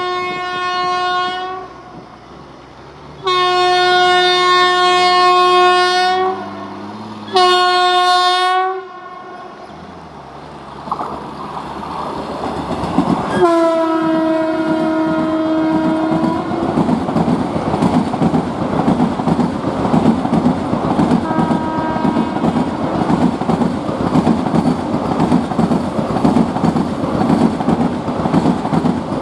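Train horn sounding in long blasts: one ending about a second in, a three-second blast, a shorter one, and another about halfway through. A train then approaches and passes, its wheels clattering steadily over the rail joints to the end.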